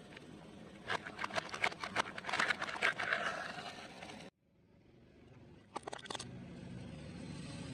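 Close-miked crunching of crispy fried food being bitten and chewed: a rapid run of crisp crackles that cuts off suddenly. After a few clicks, a low, steady vehicle rumble rises near the end.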